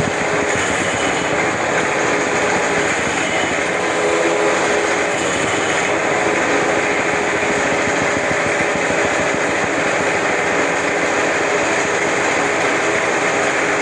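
Homemade CNC lathe running steadily while it cuts threads on a pipe. The noise is dense and even throughout, with a faint steady hum.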